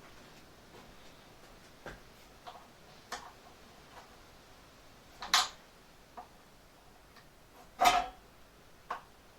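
Hand tools clinking against the band saw's metal fittings while spanners are tried on its nuts: scattered light clicks and knocks, with two louder clanks about five and eight seconds in.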